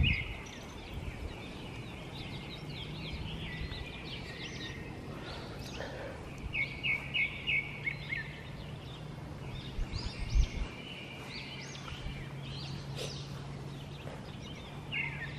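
Birds chirping and calling, with a quick run of about five sharp chirps a little past halfway. A steady low hum sits underneath.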